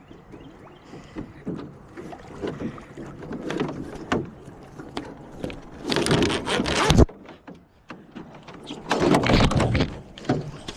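Knocks and bumps in and against a small boat, with two loud rushes of noise: one about six seconds in that stops abruptly, and another about nine seconds in.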